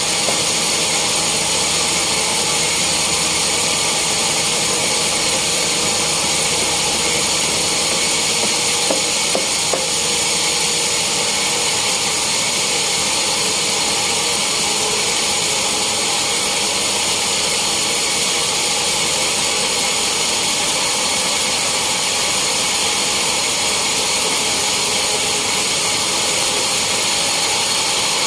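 Sawmill saw running steadily through teak wood: an unbroken mechanical noise with a strong high hiss and steady whining tones.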